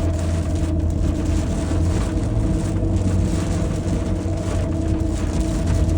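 Inside a car in heavy rain: a steady low hum of the car under an even hiss of rain and wet road.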